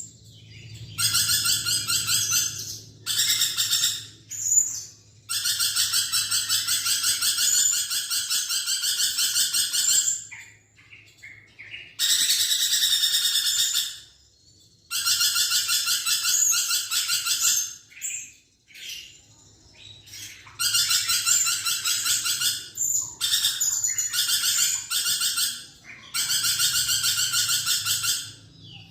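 Lorikeet calling in loud runs of rapid, shrill, chattering trills, each run lasting one to five seconds with short pauses between.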